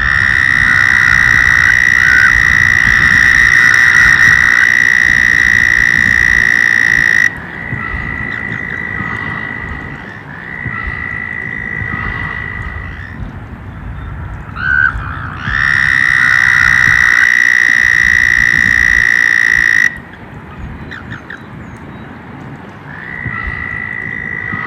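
Frogs trilling in chorus: long, steady, high trills held for several seconds at one pitch. A loud one lasts about seven seconds, and another begins about fifteen seconds in. Quieter trills from other frogs overlap in between and near the end.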